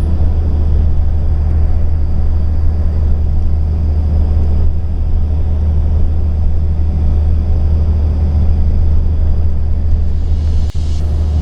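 Steady low rumble of road and engine noise heard from inside a moving car, with a single click near the end.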